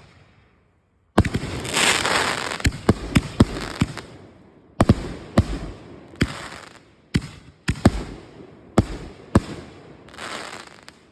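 Consumer fireworks going off: a quick series of about a dozen sharp bangs at uneven intervals, with crackling hiss between them, thinning out near the end.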